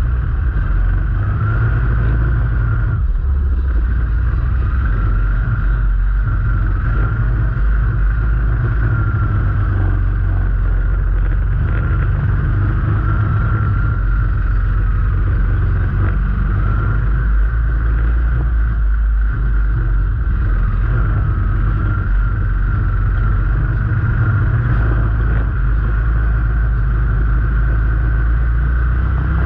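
Vehicle engine running steadily on the move, a heavy low rumble with a higher whine that wavers slightly in pitch.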